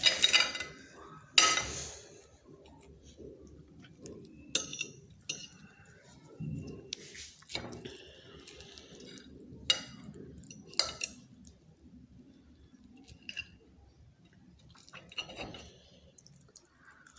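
Cutlery clinking and scraping against a plate in scattered, irregular knocks while food is served and eaten.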